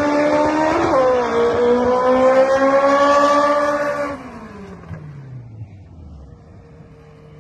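Drag car engine at full throttle, pitch climbing with a shift about a second in. About four seconds in it falls in pitch and fades away.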